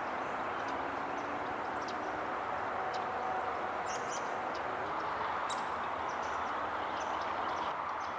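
Scattered short, high calls from a flock of red-winged blackbirds, over a steady background rumble.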